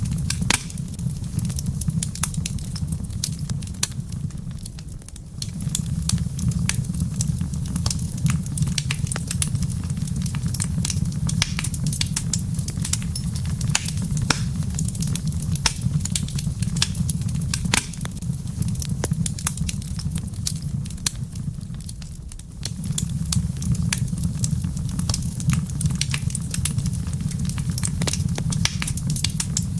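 Wood fire in a fireplace crackling, with dense sharp pops over a steady low rumble. The rumble briefly fades twice and comes back.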